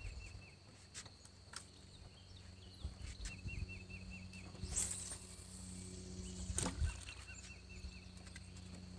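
Quiet lakeside ambience: a bird gives a short run of rapid, evenly repeated high chirps about three and a half seconds in, over a low steady hum. A few light clicks and knocks come and go, one a little louder near the middle.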